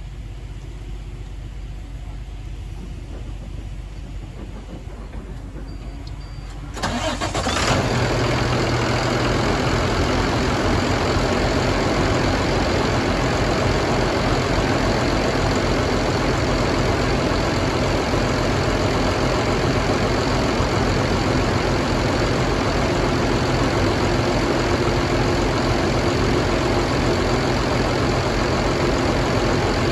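A low steady hum, then about seven seconds in a 2009 Cummins ISB6.7 inline-six turbodiesel starts and settles into a steady idle.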